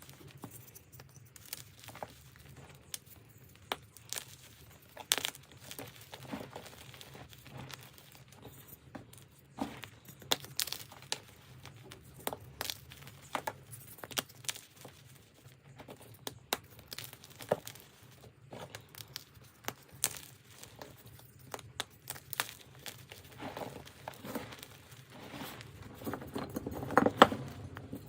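Dyed gym chalk being crushed, crunching and crumbling in irregular sharp crackles, with a louder, denser stretch of crunching near the end.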